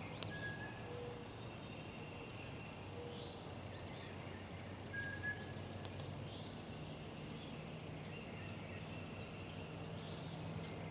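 Outdoor birdsong: short repeated calls and whistled notes every second or two over a low steady hum, with a few sharp clicks.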